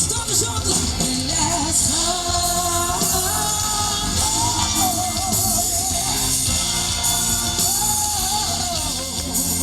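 Live band music with a woman singing over drums, bass and cymbals, the sound of a large room.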